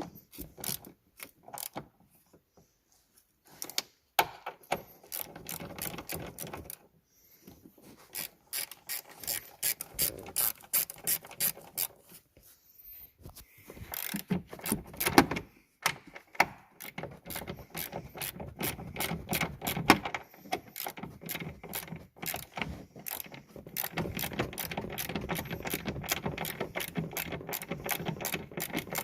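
Hand ratchet wrench clicking in quick runs as fasteners are turned, with short pauses between runs.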